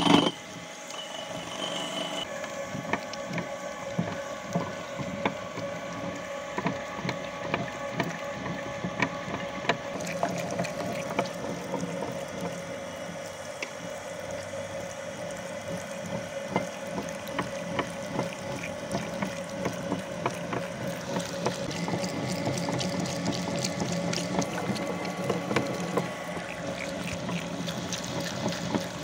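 Meat grinder running with a steady hum while grinding Snickers bars, with frequent irregular clicks and crackles as the bars are forced through.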